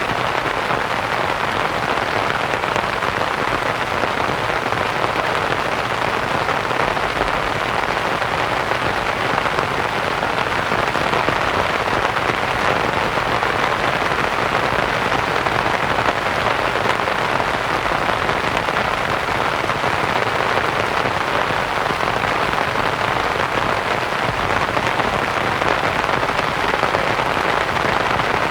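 Steady rain pattering on a canvas tent, mixed with soft white noise; an even, unchanging hiss.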